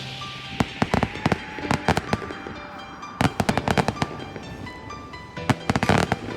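Fireworks going off in quick clusters of sharp bangs and crackles, four bursts of them, with music playing underneath.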